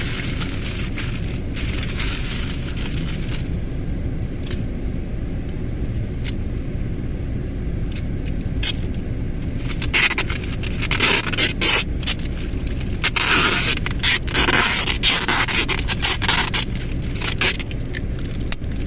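Gift-wrapping paper being handled, rustling and scraping in short crinkly bursts that grow dense and loud through the second half, over a steady low rumble inside a car.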